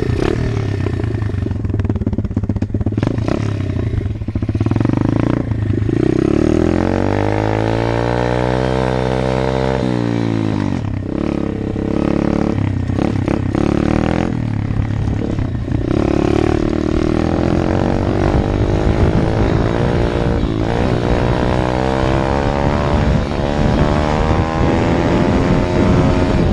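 Apollo 125 cc dirt bike's single-cylinder four-stroke engine under way, its pitch climbing and dropping again several times as the rider accelerates and eases off, over rough wind and road noise.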